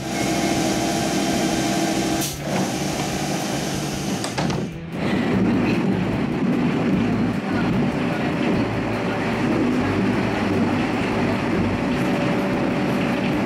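Steady running noise inside a Chūō Line local train carriage. Steady hum and tones for the first few seconds, two brief breaks about two and five seconds in, then an even rumble of the train under way.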